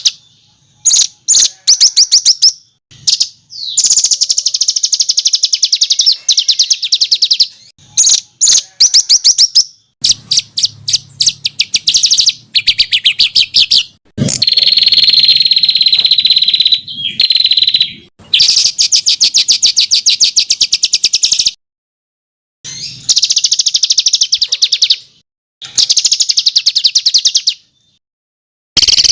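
A songbird singing loud, rapid trills of sharp repeated high notes, in phrases of one to three seconds broken by short pauses, with a few longer whistled notes near the middle. It is a 'masteran' tutor song of fast 'shot' trills, meant for competition songbirds to copy.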